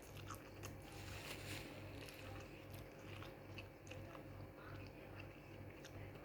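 Faint chewing and small wet mouth clicks of someone eating instant pancit canton noodles close to the microphone.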